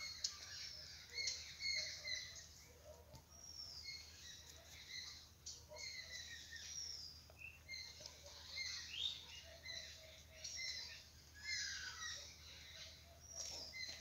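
Several birds calling and singing together: a busy run of short, high, falling chirps, with some softer lower notes underneath.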